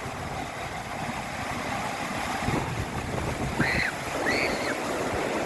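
Wind buffeting the microphone over the steady rush of big storm-driven surf. Two short high calls come a little over halfway through.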